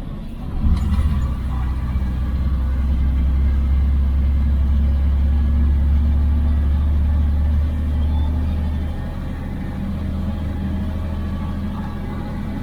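IFA L60 truck's six-cylinder diesel engine running, heard from inside the cab: a deep, steady drone that picks up about a second in and eases off a little around eight or nine seconds in.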